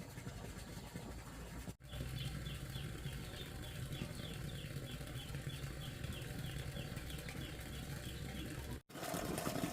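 A bird chirping over and over in short, falling chirps, about three a second, over a low steady hum. The sound cuts out abruptly twice.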